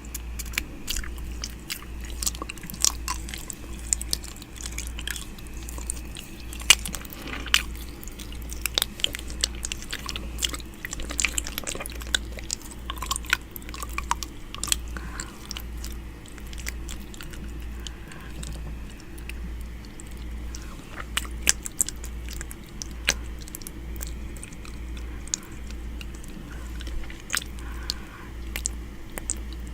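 ASMR 'ear eating' mouth sounds: irregular wet clicks, smacks and nibbling sounds made close to a microphone's ear, over a steady low hum.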